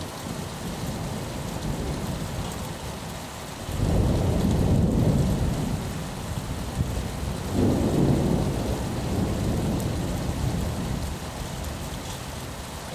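Steady rain against a window with a long roll of thunder rumbling underneath, swelling loudest about a third of the way in and again past the middle before fading out.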